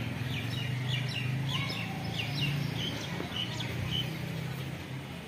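Birds chirping over and over in short, high, falling notes, with a steady low hum underneath.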